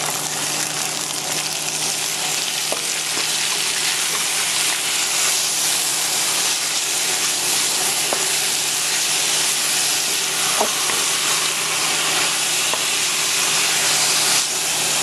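Chinese broccoli and garlic sizzling steadily in a hot oiled pan while being stirred with a spatula. The spatula gives a few light scrapes and ticks.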